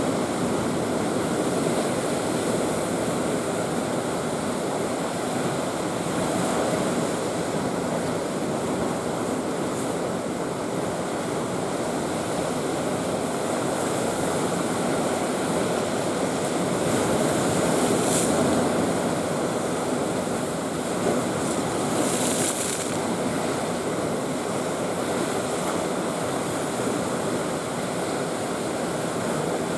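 Heavy typhoon-driven sea waves pounding against a concrete breakwater, a continuous surf noise that swells about two-thirds of the way through, with brief sharper splashes then and a few seconds later.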